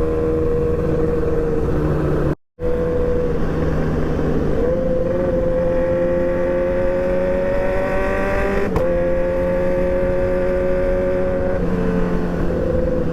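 R6 sportbike engine running under way, its pitch holding steady and then climbing slowly for several seconds before a short break and a drop in revs near the end. The sound cuts out completely for a moment about two and a half seconds in.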